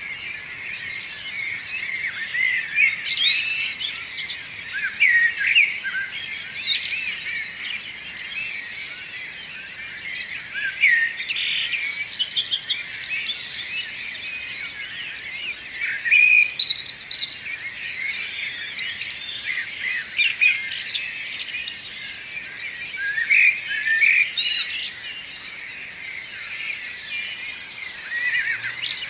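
Morning chorus of several songbirds singing and chirping at once, with overlapping trills, warbles and short high notes, over a faint steady hiss.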